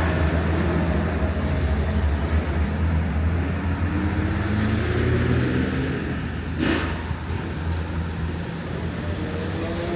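Street traffic: a motor vehicle engine's steady low rumble close by, with one short sharp noise about seven seconds in.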